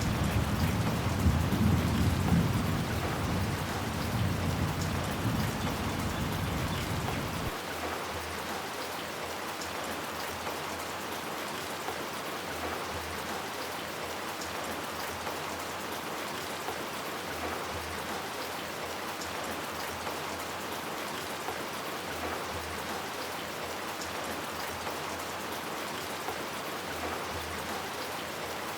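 Steady rain falling, an even hiss, with a low rumble of thunder at the start that fades out about seven seconds in.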